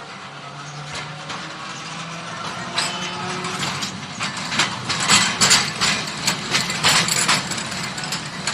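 Electric tram running, with a steady low motor hum and a rattle of clicks and knocks from the running gear. The rattle grows louder from about four seconds in.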